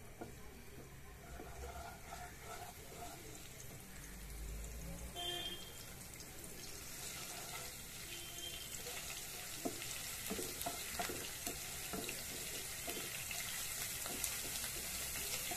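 Ginger-garlic paste sizzling in hot oil in a nonstick wok, a soft sizzle that builds steadily, while a wooden spatula stirs it with light scrapes and taps against the pan. The paste is being sautéed to cook off its raw smell.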